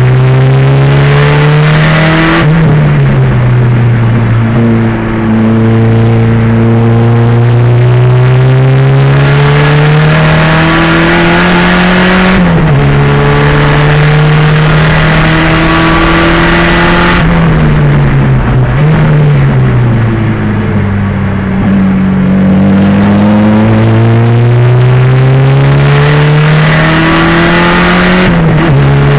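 Turbocharged 2.0-litre engine of a Pontiac Fiero race car under hard acceleration on track. Its pitch climbs steadily through long pulls and drops sharply at several gear changes or lifts, with one longer slowdown and pull back up around two-thirds of the way through.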